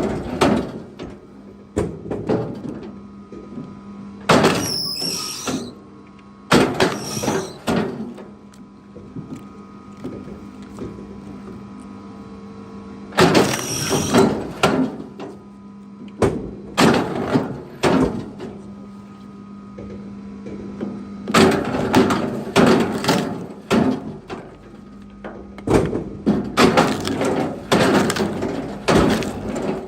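Pieces of firewood being handled and thrown: irregular clusters of sharp wooden knocks and clatters, over a steady low hum.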